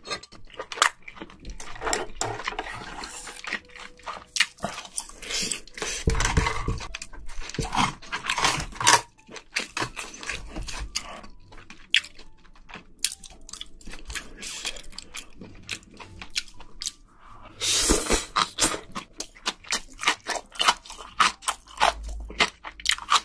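Close-miked chewing with many irregular crunches: a mouthful of spicy steamed seafood with crunchy bean sprouts being eaten.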